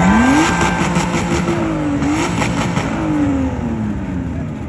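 Car engine revved hard: it climbs quickly, holds at high revs with a fast crackle over the top, then falls back toward idle near the end.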